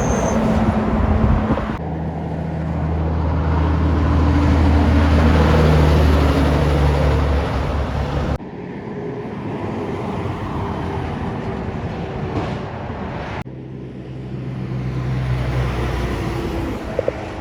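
Heavy trucks driving past on a road, their diesel engines running with a steady low drone over tyre and road noise. The sound changes abruptly about two, eight and thirteen seconds in, as one passing truck gives way to another.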